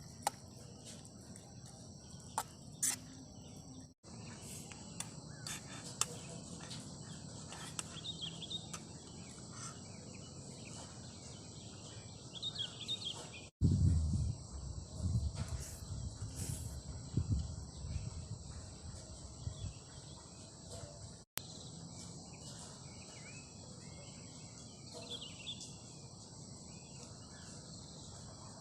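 Crickets and other insects chirring in steady high tones, cut off for an instant three times. Between about 14 and 18 seconds comes a run of low rumbling bumps, the loudest sound here.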